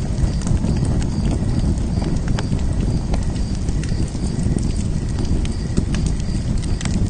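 Wood fire crackling and popping in irregular sharp snaps over a steady low rumble of the burning flames.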